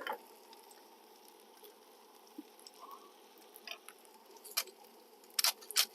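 A spice shaker of garlic powder being shaken over food: quiet at first, then a few short, sharp taps in the last couple of seconds.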